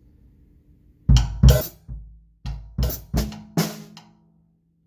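Drum kit played slowly: bass drum, snare and hi-hat strokes in an uneven groove pattern starting about a second in, with snare ghost notes and a left-hand hi-hat hit being worked in, stopping about four seconds in.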